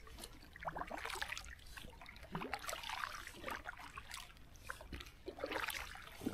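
Faint, irregular trickling and small splashes of river water around a boat under way.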